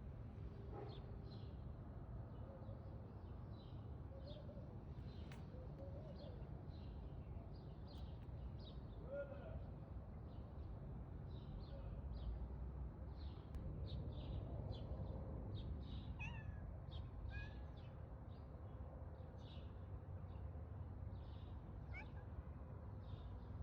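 A cat meowing faintly a few times over a steady low rumble, with frequent short high chirps throughout.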